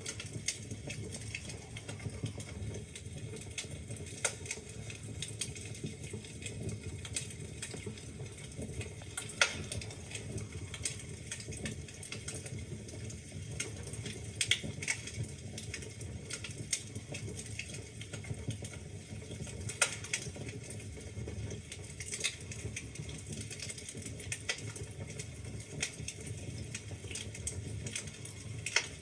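Wood fire burning in a fireplace: logs crackling with frequent irregular pops and snaps over a low steady rush of the flames, a few sharper pops standing out.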